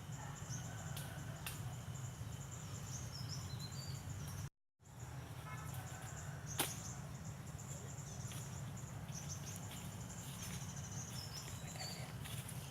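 Rural outdoor ambience: birds chirping high over a steady low rumble, with a few sharp clicks, the loudest about six and a half seconds in. The sound drops out completely for half a second at about four and a half seconds.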